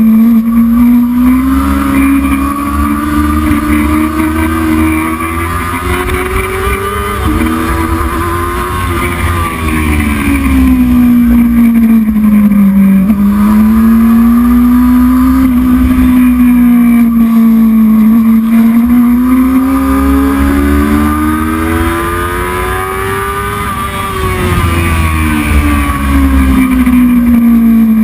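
Heavyweight racing motorcycle engine running hard at race pace. Its note climbs slowly as it accelerates and drops back several times as it slows.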